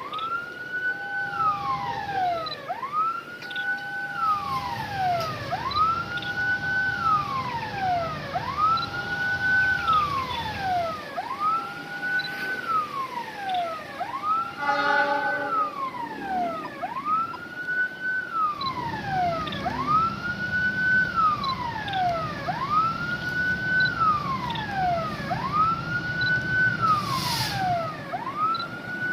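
Railway level-crossing warning siren wailing in a repeating rise-and-fall, about once every two seconds. A short blast sounds about halfway through, and a low rumble of an approaching train builds in the second half.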